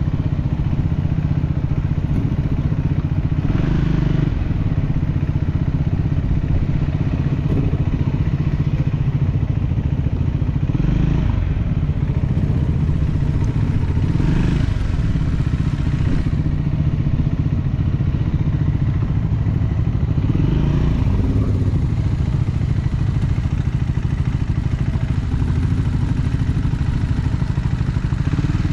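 Motorcycle engine running while riding, its note rising and dropping several times through the gears.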